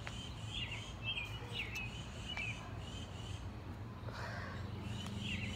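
Songbirds chirping in short repeated phrases, over a steady low hum.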